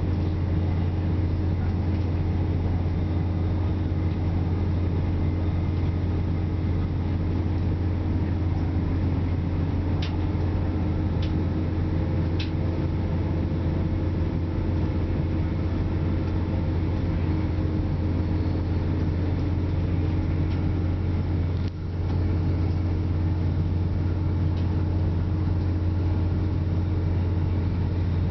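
Interior running noise of a Class 168 diesel multiple unit at speed: a steady low drone from the underfloor diesel engine and wheels on rail, with three faint clicks about ten to twelve seconds in.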